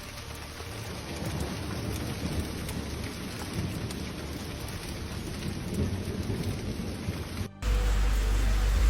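Steady rushing storm noise with a deep rumble underneath. Near the end it cuts abruptly to a much louder, deeper rumble.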